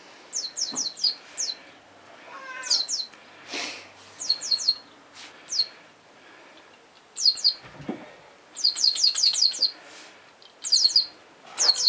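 Squeaky toy mice squeaking in quick runs of short, falling squeaks, several squeaks to a run, again and again. A cat gives a short meow about two and a half seconds in.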